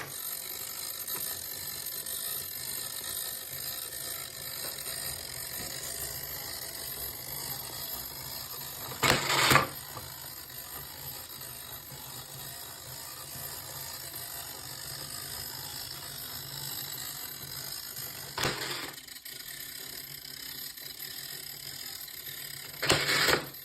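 Model of Vauloue's 1737 pile driver, with its fusee-geared drum, being run. Its gearing makes a steady mechanical running noise as the ram is wound up, and the ram drops and strikes with a loud knock about 9 seconds in and again near the end, with a lighter knock in between.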